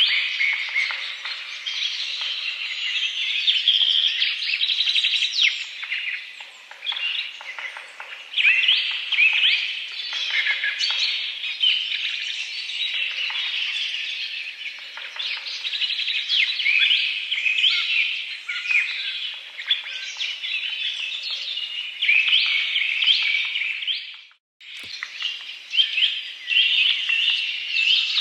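Many small birds chirping and calling in a dense, continuous chorus of short high notes. The sound drops out briefly with a click about three-quarters of the way through.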